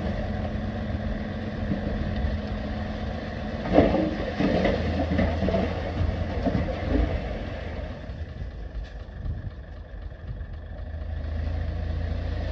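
Heavy diesel engine of earthmoving machinery running steadily, with a sharp bang and clatter about four seconds in. The engine drops quieter for a few seconds past the middle, then picks up again near the end.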